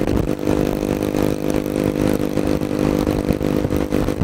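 Motorcycle engine running steadily at cruising speed while riding, its pitch holding even, with wind rumbling on the microphone.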